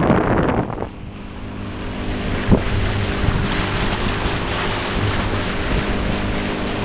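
Motorboat engine running steadily under rushing wind and water noise; the rushing is loudest for about the first second, then falls away, leaving the engine's even hum more plainly heard.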